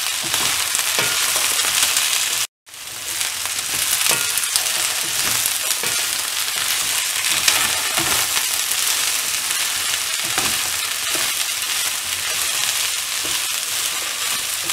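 Broccoli florets and potato pieces sizzling in hot oil in a kadai, stirred and turned with a wooden spatula. The steady sizzle drops out completely for a moment about two and a half seconds in.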